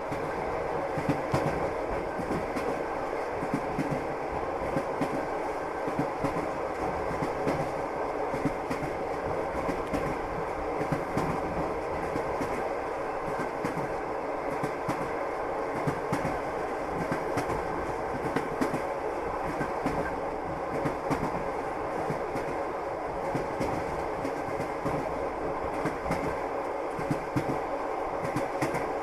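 Railway carriage wheels clattering over rail joints as the train runs along: a steady rumble studded with frequent sharp clicks.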